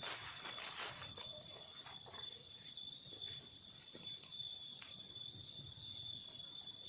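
Steady high-pitched drone of forest insects, with a few faint knocks and rustles.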